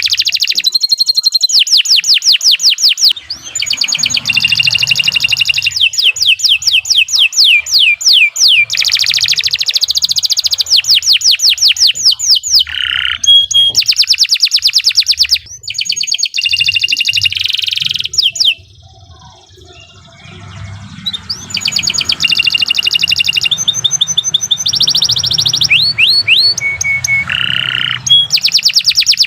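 Domestic canary singing long, rapid trills of repeated high, sweeping chirps. The phrases change pace and pitch as they go, and the song breaks off for about two seconds roughly two-thirds of the way through.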